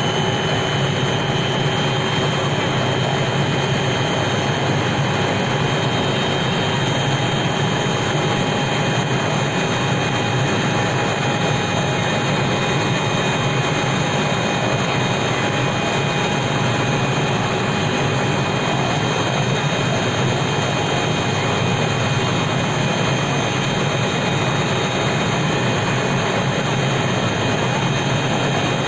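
Helicopter in flight: a steady, loud engine and rotor noise with constant high whining tones above it, unchanging throughout.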